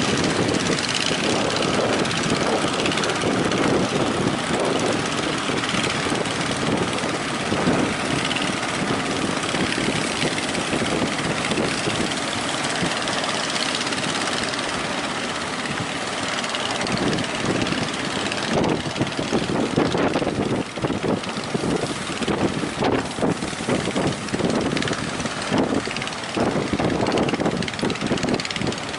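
Strong gusting wind buffeting the microphone over a steady wash of breaking sea waves. The buffeting turns choppier and more uneven about two-thirds of the way through.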